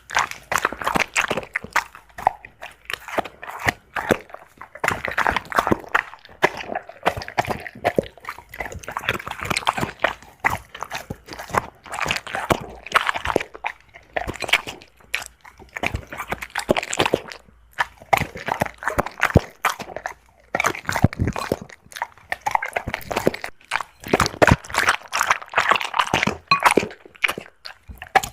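A Labrador chewing and crunching on chicken: dense runs of wet crunching bites broken by brief pauses.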